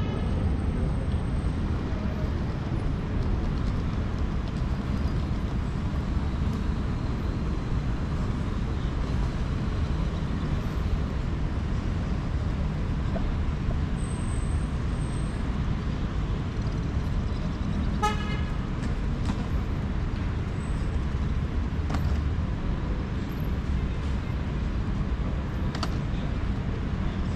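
City street traffic, a steady rumble of passing vehicles, with a brief car horn toot about two-thirds of the way through.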